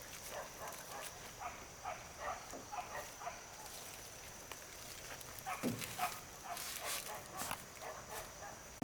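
A run of short animal calls, two or three a second, that pauses for a couple of seconds midway, over a steady faint high whine.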